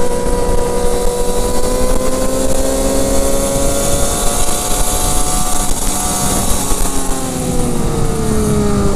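Sportbike engine under way with wind rushing past the helmet microphone; the engine's pitch climbs slowly for about five seconds, then falls off near the end as the bike slows.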